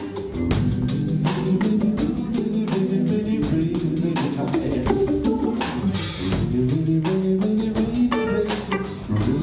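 A Hammond B3 organ, guitar and drum kit playing a slow soul ballad with no vocals, the organ holding chords under a steady beat. A cymbal crash comes about six seconds in.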